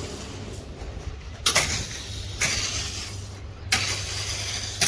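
A motor vehicle's engine running with a steady low hum, with four sharp knocks spread through it.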